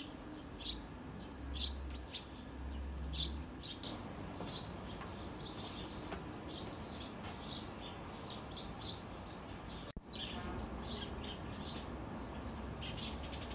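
Small birds chirping in the trees: many short, high calls scattered throughout, over a steady low background rumble.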